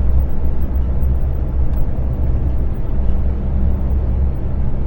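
Truck cab interior while driving: the tractor unit's diesel engine runs steadily with road noise, a low, even hum.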